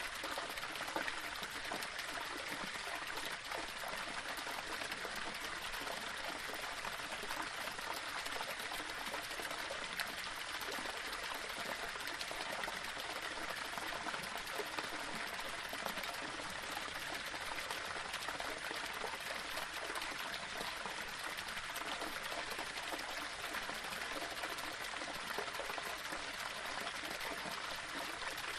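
Small waterfall splashing and trickling over rocks: a steady rush of falling water.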